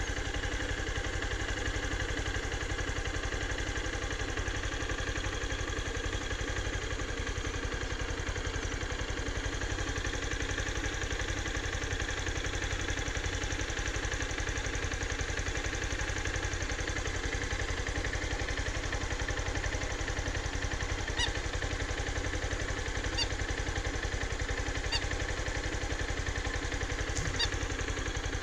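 An engine running steadily at an even idle, with a fast even pulse. A few faint short high clicks sound in the second half.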